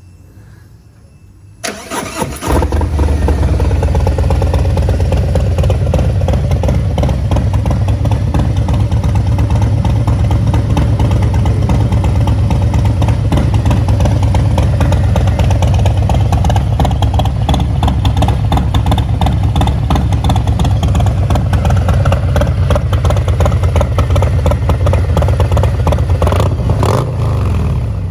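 Harley-Davidson Milwaukee-Eight 114 V-twin on a Bassani Ripper exhaust being warm-started: the starter cranks briefly, the engine catches about two seconds in, then idles loud and steady with a deep, even pulse.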